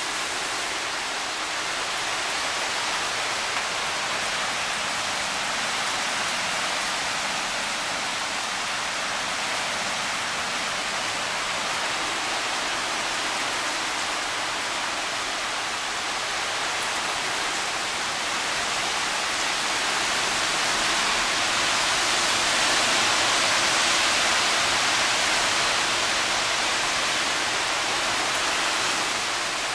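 Heavy wind-driven hurricane rain pouring down in a steady hiss, swelling louder for several seconds about two-thirds of the way through.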